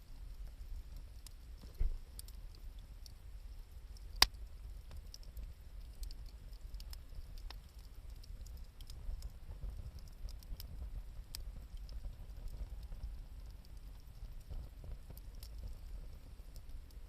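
Wood campfire crackling, with scattered small pops and one sharp loud crack about four seconds in, over a low steady rumble.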